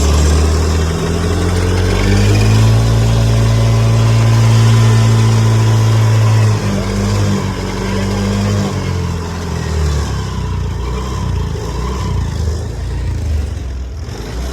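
Honda Dio 125 scooter engine revved up about a second or two in, held high for several seconds, then throttle released and dropping back toward idle. It runs with the gearbox noise that the mechanic traces to a worn gearbox pinion, a 'khar-khar' grinding.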